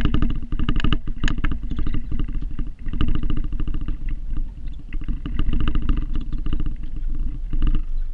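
Snow-plowing vehicle's engine running, with a rapid, even pulsing; it dips briefly about three seconds in.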